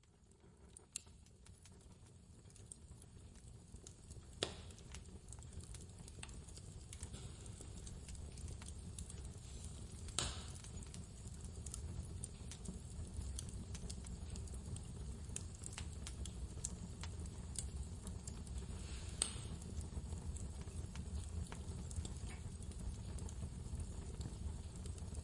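Wood fire crackling, with scattered sharp clicks and a few louder pops, over a low, steady rumble of blizzard wind. The sound fades in from silence over the first several seconds.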